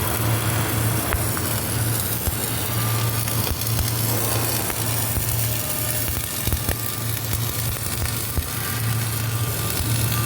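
Flux-cored arc welding: the wire-feed arc crackles and sizzles steadily with frequent sharp spatter pops, over a steady electrical hum from the welding machine.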